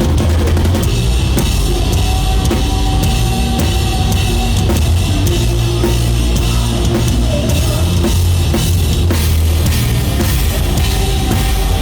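Live rock band playing loud and steady, with a full drum kit, bass drum hits, bass and distorted electric guitars.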